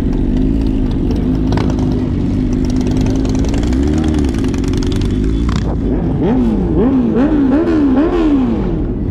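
A car engine running at a held, raised idle with small swells, then revved up and down in quick repeated blips from about six seconds in.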